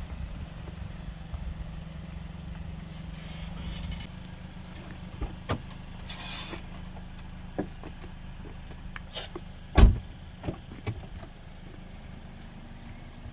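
Car running with a steady low hum, broken by a few sharp knocks and clicks and one louder thump about ten seconds in.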